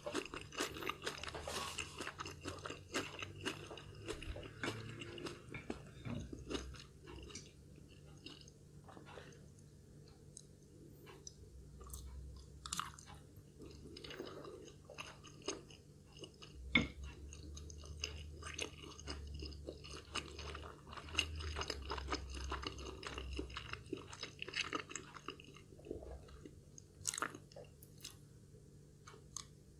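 A person chewing food close to the microphone, with irregular wet mouth clicks and occasional crunches, and one sharper click about two-thirds of the way through.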